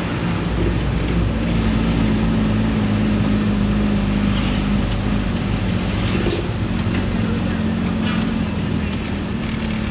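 Dump truck's diesel engine running steadily, a constant low hum over a broad rushing noise.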